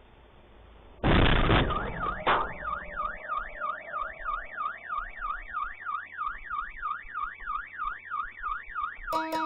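A loud crash about a second in, with a second bang soon after, then a car alarm wailing, its pitch sweeping up and down about three to four times a second. Music comes in near the end.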